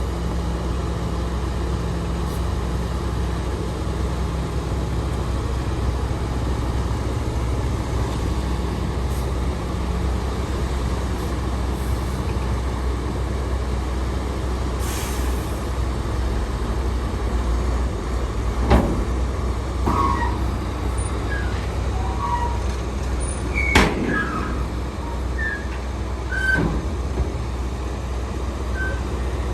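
Heavy diesel machinery running steadily, a bulldozer and dump trucks at work, with a short hiss of air about halfway through. Several sharp metallic clanks with brief squeaks follow in the last third.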